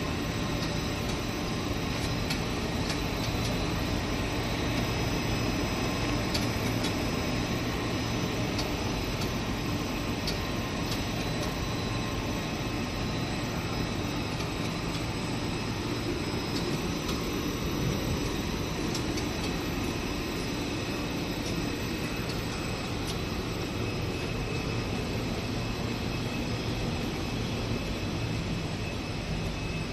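Rubber extrusion and microwave vulcanization production line running: a steady machine hum with several held tones and occasional faint ticks.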